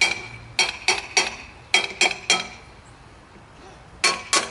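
About nine sharp metallic taps in short groups, with a lull of over a second near the middle: the Sears Craftsman bench grinder's shaft being tapped over to seat it so one end sticks out, during a bearing replacement.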